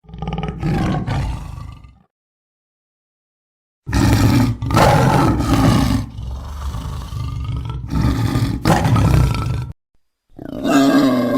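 Big cat roaring: a short roar in the first two seconds, then after a pause a longer, deep roar lasting about six seconds; another animal call starts near the end.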